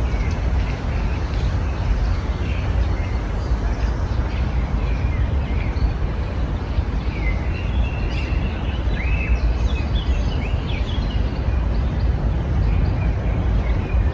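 Several songbirds chirping and calling in short scattered phrases, busiest in the middle, over a steady low rumble.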